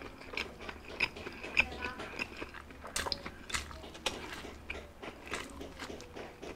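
Chewing and biting into a bacon burger: irregular sharp mouth clicks, with another bite taken partway through.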